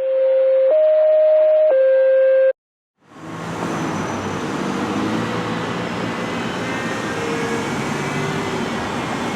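Three steady electronic beeps, low, higher, then low again, lasting about two and a half seconds and cutting off sharply. After a brief silence, the steady noise of road traffic and idling engines fades in and continues.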